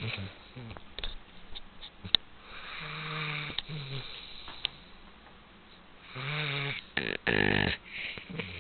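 Golden retriever snoring in her sleep: three drawn-out breaths, two with a low buzzing rumble, the loudest near the end, and a few small sharp clicks between them.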